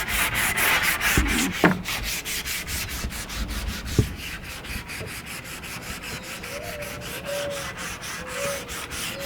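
Teak rubrail being sanded with quick, even strokes, a rhythmic rasping of abrasive on wood, with a couple of sharp knocks along the way. This is a light cleanup sanding of the bare teak before the rail is fitted.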